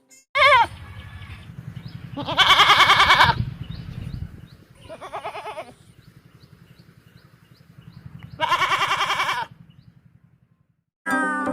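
Livestock bleating: four wavering bleats, two short and two long, the long ones about a second each.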